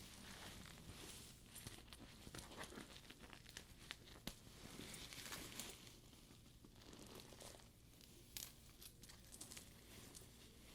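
Faint close-up handling of a studded faux leather purse: the leather rustles and creases under the fingers, with scattered small clicks and taps from the metal studs.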